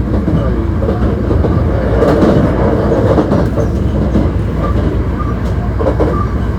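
Hankyu 1300 series electric train running at speed between stations: a steady rumble of wheels on rail with some rail-joint clatter.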